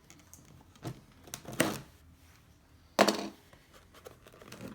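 Cardboard box and packaging being handled and opened: a few short scrapes and rustles, then a sharp knock about three seconds in, the loudest sound.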